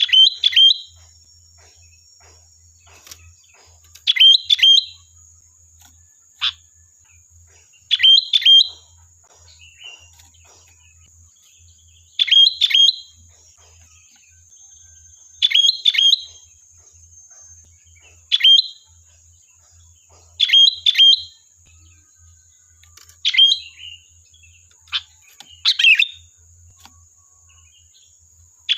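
Sooty-headed bulbul (kutilang) calling: short, loud chirpy phrases of two or three quick notes, repeated every two to four seconds. A faint, steady high-pitched tone runs underneath.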